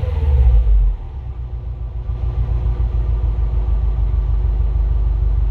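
2020 Subaru WRX STI's turbocharged flat-four engine, through the stock exhaust, dropping back from a rev about a second in, then idling with a steady deep rumble.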